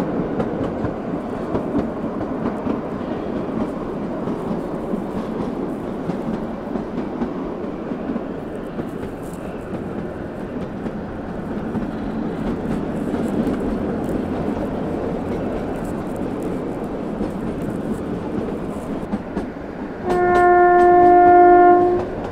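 Narrow-gauge train running, heard from an open coach window: a steady rumble of wheels on rail. Near the end the diesel locomotive's horn sounds once for about two seconds, its pitch dipping as it stops.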